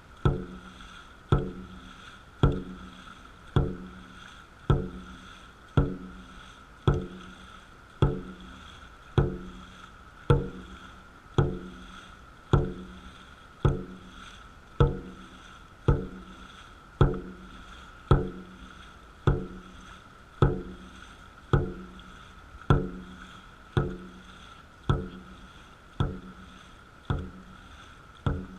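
Dragon boat drum struck on a steady beat, about one stroke a second, each hit ringing briefly. The drum sets the paddlers' stroke rate.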